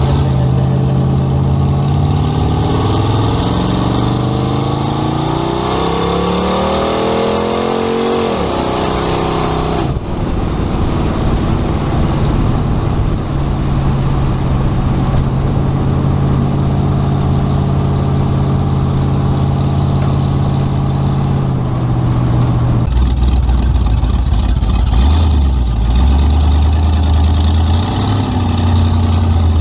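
1929 Ford Model A hot rod's engine heard from inside the cab while driving. It revs up steadily for about eight seconds, drops off sharply about ten seconds in, holds steady for a long stretch, then settles to a lower, deeper note for the last several seconds.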